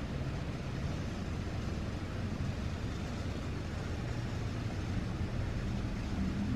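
Belanger Saber tunnel car wash equipment running: a steady, noisy rumble with a low hum growing stronger near the end.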